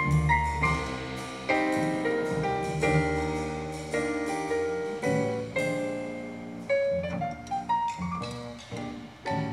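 Instrumental music led by piano, a flowing melody of struck notes that ring and fade, several a second.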